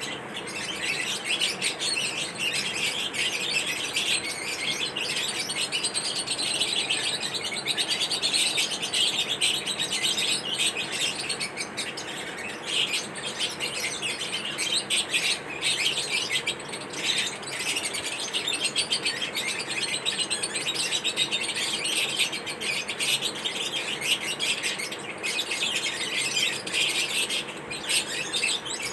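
Lovebirds chirping: a dense, unbroken chatter of rapid high-pitched chirps and squeaks.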